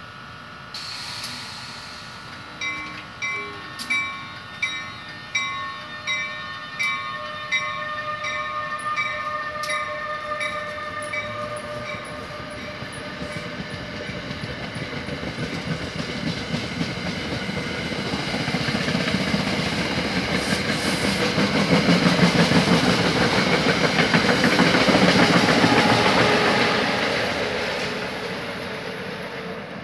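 NJ Transit ALP-46 electric locomotive pulling a commuter train out of the station: a bell rings about every 0.7 seconds for the first ten seconds over a steady electric whine. Then the coaches roll past with growing wheel-on-rail noise, loudest as the trailing ALP-46 passes, and fading near the end.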